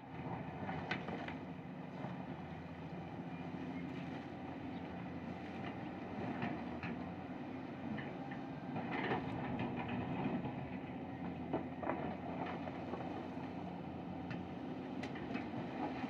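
Cat 320D excavator's diesel engine running steadily, with sharp metallic clicks and knocks scattered through.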